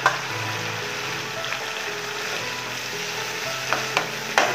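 Marinated chicken pieces sizzling in a pan of frying spice paste as they are stirred. A metal spatula knocks and scrapes against the plate and pan: once at the start and three times near the end, the last the loudest.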